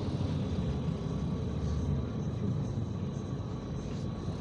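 IVECO Crossway 13M PRO city bus running, heard as a steady low rumble of engine and drivetrain inside the passenger cabin.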